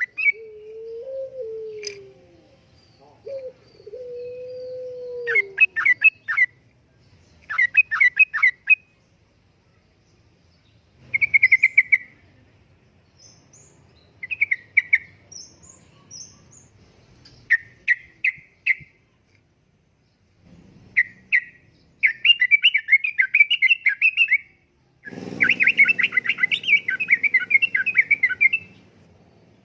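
Yellow-vented bulbul (trucukan) singing bubbly, chattering phrases in repeated bursts, the longest and loudest phrases coming near the end. For the first five seconds a lower wavering whistle-like tone sounds before the song begins.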